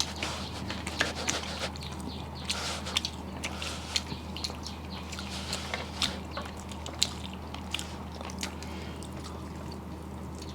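Close-up eating sounds: scattered small clicks and smacks of chewing, over a steady low hum.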